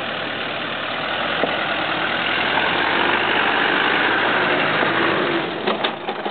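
First-generation Land Rover Discovery's engine running slowly under load as the 4x4 crawls up a rutted, cracked dirt track. It grows louder as the vehicle comes close alongside, then drops away, with a few sharp clicks near the end.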